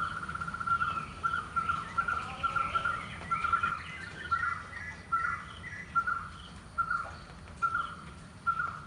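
White-cheeked barbet (kutturuvan) calling: the end of a fast 'trrr' trill runs into a long series of loud 'kutroo' notes repeated at one pitch, starting at about two or three a second and slowing to under two a second.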